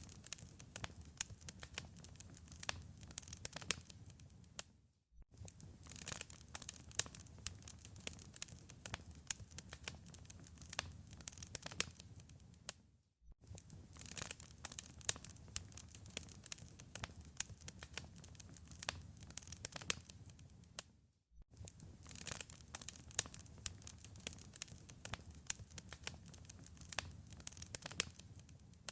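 Wood fire crackling in a fireplace, with dense irregular pops and snaps over a soft low rumble. The sound drops out briefly about every eight seconds.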